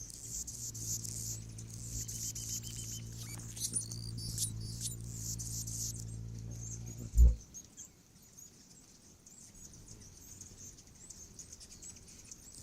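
Hummingbirds at a nectar feeder making high, squeaky chittering chips and twitters. A low hum runs underneath for the first seven seconds and ends with a single thump.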